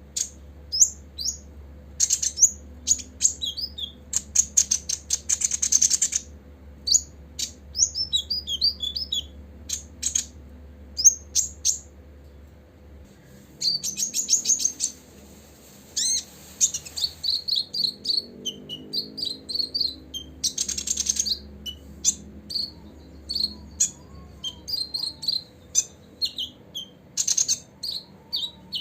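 Copper-throated sunbird singing: a rapid string of high, thin chirps and short trills, broken by a pause about twelve seconds in, with a faint steady hum underneath.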